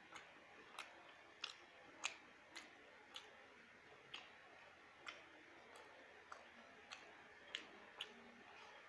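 Mouth chewing a mouthful of khichuri: faint, sharp clicks at an uneven pace, about one or two a second, over low hiss.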